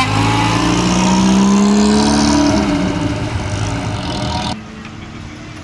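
Engine of a white vintage Singer open roadster pulling away, its note rising in pitch as it accelerates and then fading as the car drives off. The sound cuts off suddenly about four and a half seconds in, leaving a much quieter background.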